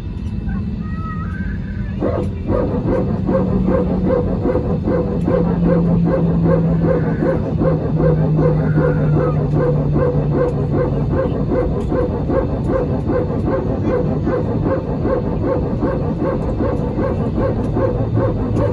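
Airbus A320 hydraulic power transfer unit (PTU) running, a fast, regular barking pulse that starts about two and a half seconds in over the steady cabin rumble: the PTU kicks in when one engine is shut down on the ground. A low engine tone falls in pitch and fades out about eleven seconds in.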